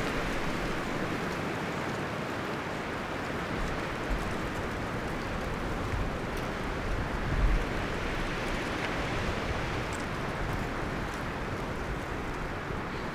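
Wind blowing through forest trees, a steady rustle of leaves and branches with a low rumbling swell about seven and a half seconds in.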